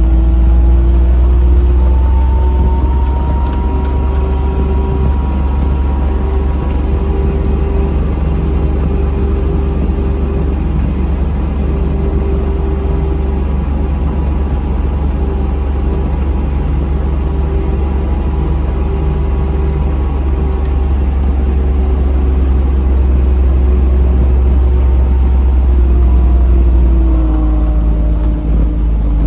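Really loud vehicle engine running under way, picked up close by a phone resting on the vehicle; its pitch rises as it gathers speed in the first couple of seconds, holds steady, then drops near the end as it slows.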